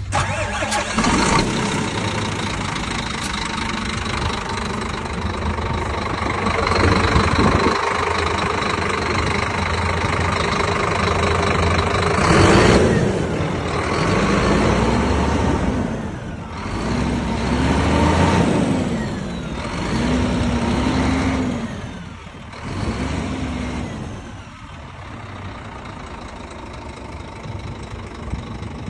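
Scania G 410 truck's 13-litre inline-six diesel running, then revved up and let fall back four or five times in the second half, each rev rising and falling in pitch.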